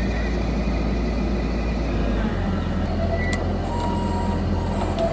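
Heavy diesel construction machinery running with a steady, deep engine rumble.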